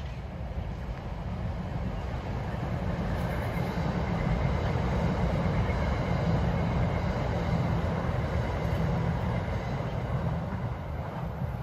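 A passing NJ Transit commuter train: a steady rumble that builds to its loudest around the middle and fades near the end.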